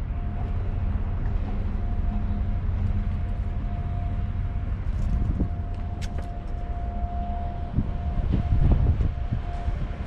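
Steady low machinery rumble with a constant high hum on top, and a few faint knocks near the end.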